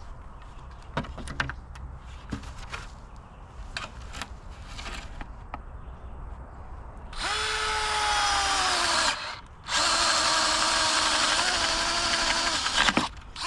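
Power drill boring a hole through a 1x4 wooden board. A few light knocks come first. Then, about seven seconds in, the drill runs for about two seconds with its pitch sagging under load, stops briefly, and runs again for about three seconds.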